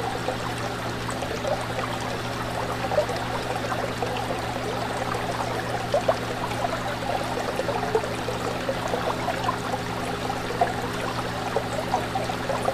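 Fish tank water trickling and bubbling continuously over a steady low hum.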